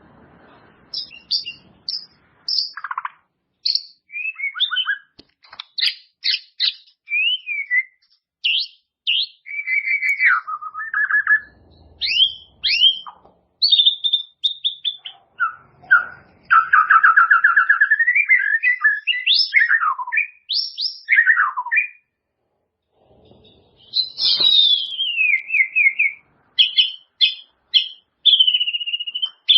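White-rumped shama (murai batu) singing a long, varied song: clear whistles, quick sweeping notes, rapid trills and short sharp notes in tumbling phrases, with a brief pause about two-thirds of the way through.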